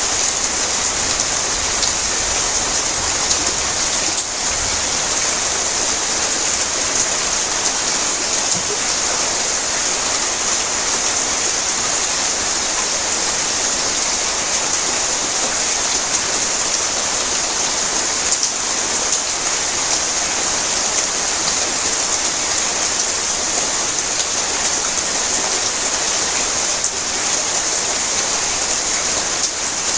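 Heavy rain drumming steadily on a tin roof, a dense even hiss of drops with fine patter and no let-up.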